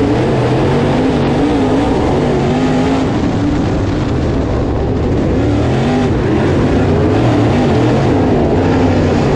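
In-car sound of a dirt-track modified's V8 racing on track, its revs rising and falling as the driver gets on and off the throttle, over a constant rushing noise.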